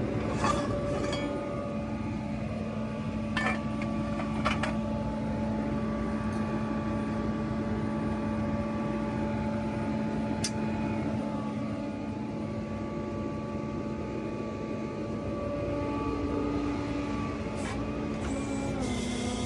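Tow truck running with its hydraulics working, a steady whine over the engine, with a few sharp clicks and knocks. The pitch of the whine shifts about sixteen seconds in.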